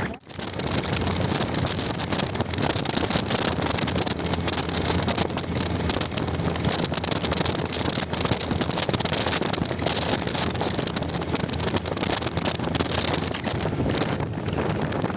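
Motorcycle on the move, its engine running under wind rushing over the microphone.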